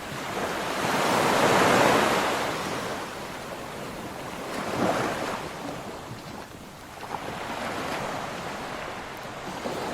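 Ocean waves breaking and washing on a shore, one wave after another: a large swell peaking about two seconds in, a smaller one near five seconds, and another building near the end.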